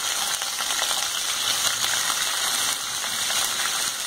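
Chopped onions frying in hot oil in a pan, a steady sizzle with fine crackling as more onion pieces are tipped in from a steel bowl.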